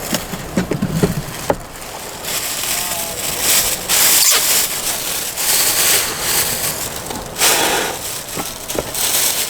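Food sizzling in a frying pan, the hiss swelling in bursts as it is stirred, with scraping and a few light clicks of a utensil.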